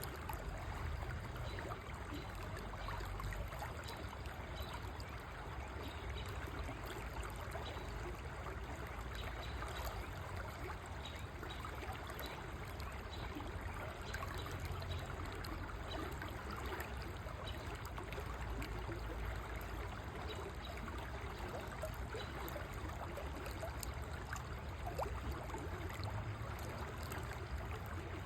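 River water flowing steadily over stones, an unbroken rushing and trickling.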